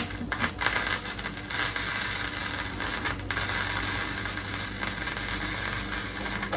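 Electric welding arc on the truck's floor sheet metal, a steady crackling sizzle that starts abruptly, breaks off briefly about three seconds in, then carries on.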